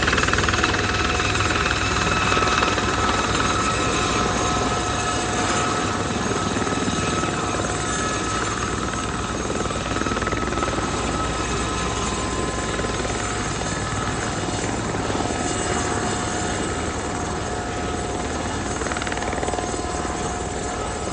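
SA342M Gazelle helicopter's turbine and rotors running steadily, a continuous roar with several high steady whining tones over it.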